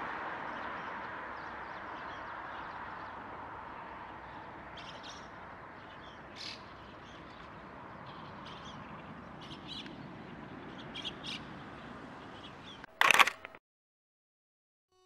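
Wild birds giving short, high calls over a steady hiss of outdoor ambience. One loud harsh call or noise comes about 13 seconds in, then the sound cuts off abruptly.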